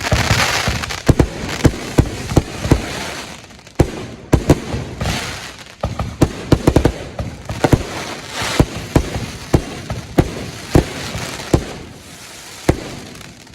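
Fireworks going off in a rapid barrage: many sharp bangs, several a second, over a continuous hiss.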